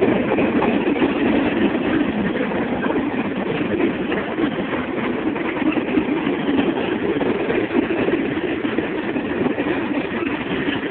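Freight train rolling past: a steady, loud rumble and rattle of cars and wheels on the rails.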